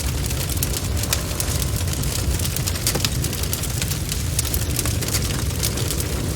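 Bonfire burning: a steady low rumble of flames with many quick, irregular crackles and pops from the burning wood.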